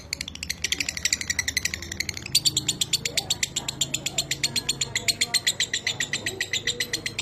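Lovebird singing the long 'ngekek' chatter: a rapid trill of high, dry notes, about a dozen a second. It breaks briefly about two seconds in, then runs on.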